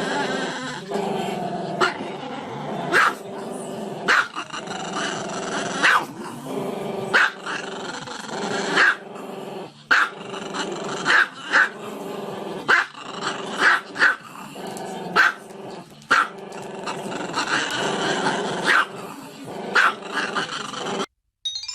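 A dog growling continuously, broken by sharp barks roughly once a second. The sound cuts off abruptly near the end, and a brief chime-like tone follows.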